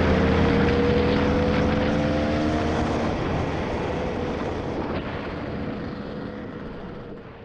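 Two-stroke dirt bike engine running, its pitch climbing a little over the first few seconds, then the sound steadily fades away near the end.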